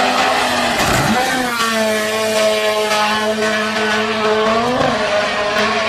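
Rally car engine running flat out at high revs. Its note dips briefly about a second in and again near the end, then climbs back.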